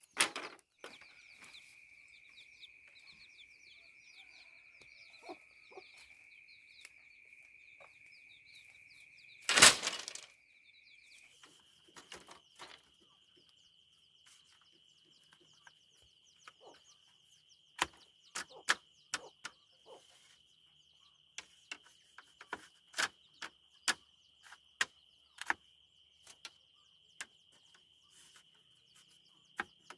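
Scattered sharp knocks and clicks, with one much louder thump about ten seconds in, over a steady high-pitched drone that steps up in pitch about eleven seconds in.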